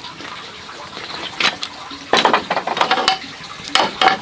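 Water splashing and pouring in several short bursts.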